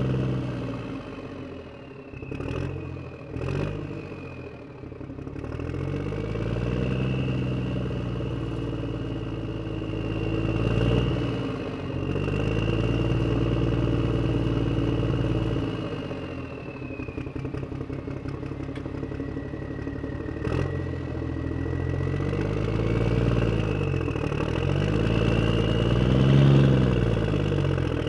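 Vehicle engine running and revving up and down again and again, with a high whine rising and falling along with it, and a few sharp clicks.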